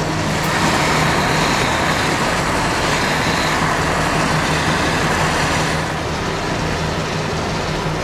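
Steady road and tyre noise with a low engine hum inside the cabin of a Lada Kalina driving along the highway, easing slightly about six seconds in.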